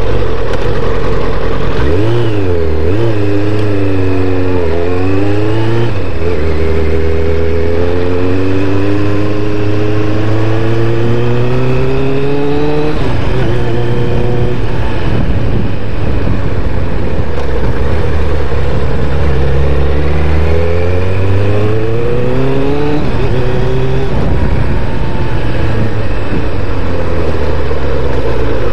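1998 Kawasaki Ninja ZX-7R's inline-four engine pulling away and accelerating through the gears. Its note rises and drops back at each upshift, three quick shifts in the first few seconds and then one long climb. It settles to a steadier cruise, then accelerates again through a couple of rises about twenty seconds in.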